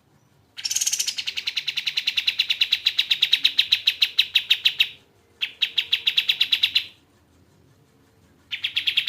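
Kapas tembak bird calling in fast, evenly repeated trills of about ten notes a second: one long trill of about four seconds, a short one, and a third starting near the end.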